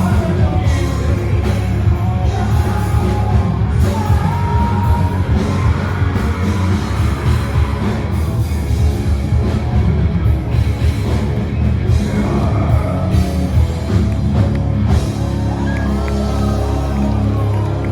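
Rock band with a singer playing loudly, the singer yelling some lines; about fifteen seconds in the drums stop and the band holds a final chord.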